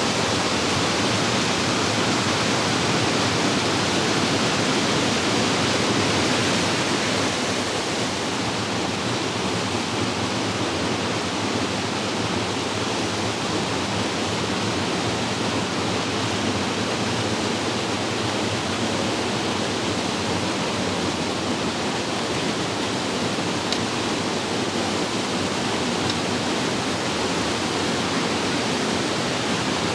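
Steady rush of Divach Falls, a waterfall, with its tone turning a little duller about seven seconds in.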